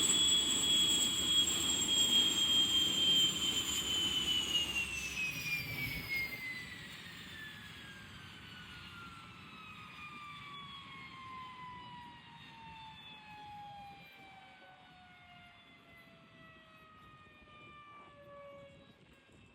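Turbomeca Marbore II jet engine on a jet dryer truck, running with a steady high whine, then spooling down: about four seconds in, the whine begins to fall steadily in pitch and fade, as the turbine winds down after shutdown.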